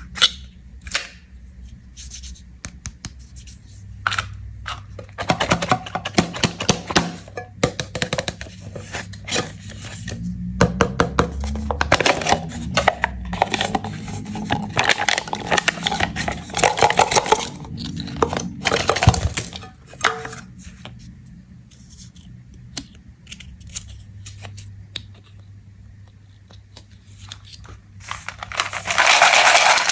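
Hands tearing open and crinkling plastic candy wrappers, in close-up: many sharp clicks and rustles, thickest through the middle stretch. A louder, continuous rustling noise starts near the end.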